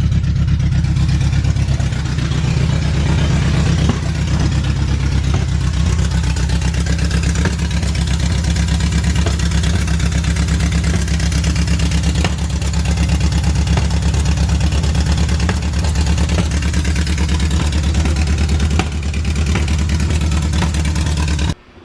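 Honda CRX's four-cylinder engine running at idle just after starting, with a few small random pops from the exhaust: backfiring, as it runs a bit rich and its carburetors still need adjusting. The sound cuts off suddenly near the end.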